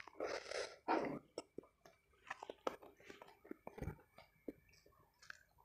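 Close-miked chewing and mouth clicks of a person eating, with two breathy hisses in the first second.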